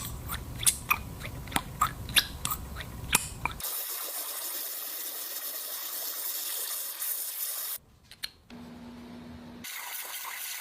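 A quick run of light clicks and taps as small metal engine parts are fitted together. Then a steady hiss, with a short steady low hum near the end.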